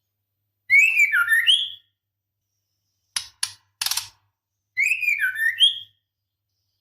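Female white-rumped shama calling to attract a male: two short whistled phrases of rising and falling notes, with a few sharp rattling ticks in between.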